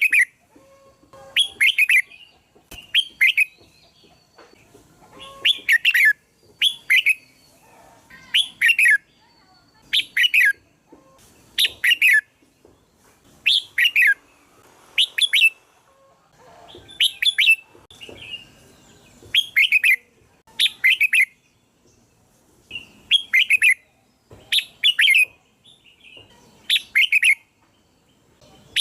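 Red-whiskered bulbul singing: short, bright, whistled phrases of a few quick notes, repeated about every second or so.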